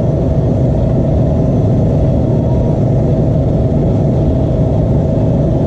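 Steady, unbroken mechanical drone like a running engine, with a constant mid-pitched tone over a heavy low rumble.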